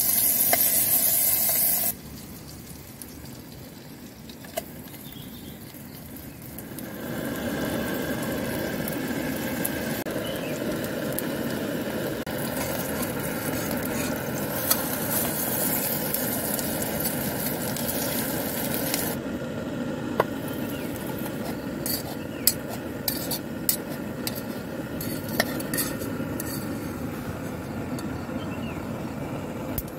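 Food sizzling as it fries in a small aluminium camping pot on a portable gas stove. The sizzle drops away about two seconds in, swells back about seven seconds in, and in the last third thins under sharp clinks of metal tongs and a spoon against the pot.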